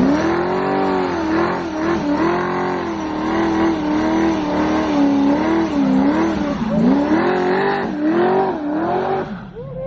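Car engine held at high revs during a burnout, the revs wavering up and down, with tyre noise under it. The revs fall away near the end.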